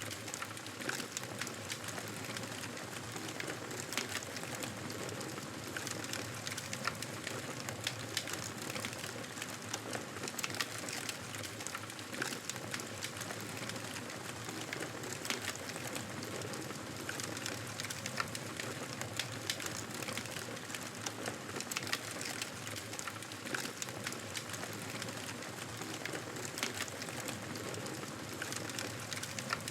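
Campfire crackling: a steady hiss of burning wood with many irregular sharp pops and snaps.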